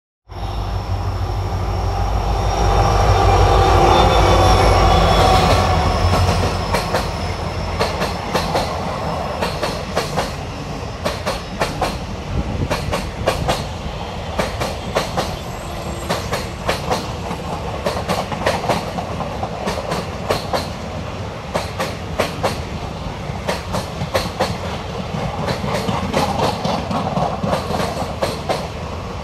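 A locomotive-hauled passenger train passing close by. The locomotive's engine is loudest a few seconds in as it goes past, then the coaches roll by with a steady clickety-clack of wheels over the rail joints.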